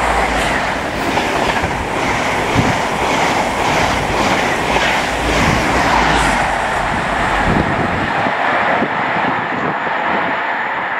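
High Speed Train (InterCity 125) running through a station: a steady rumble of wheels on rail, with a rhythmic clickety-clack of wheels over the rail joints in the first half.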